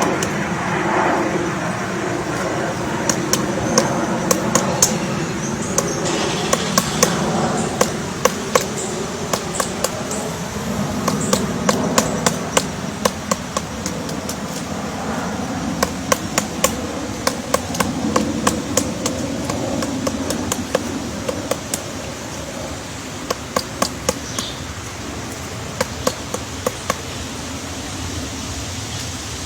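Many short, sharp taps or knocks, often in quick runs of two to four, over a steady background noise.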